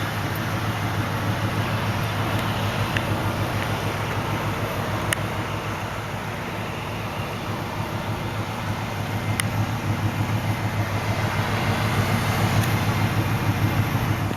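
A 1993 Lincoln Town Car's 4.6-litre V8 idling steadily through its dual exhaust, a low, even, pulsing hum.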